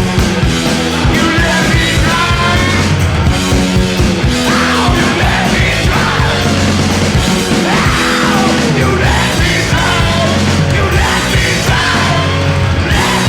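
Rock and blues band recording playing loud and steady: drums, bass and electric guitars, with a wailing lead line that bends up and down in pitch over the top.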